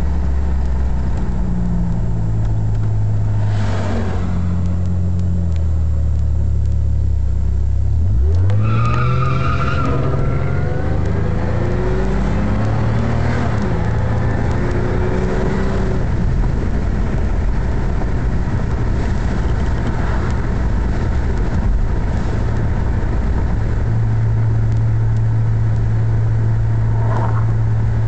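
Supercharged 3.8-litre V6 of a Ford Thunderbird Super Coupe heard from inside the cabin while driving, with a steady cruising engine note. About eight seconds in the revs dip and then climb quickly under acceleration, a high whine rising with them, before the engine settles back into a steady drone.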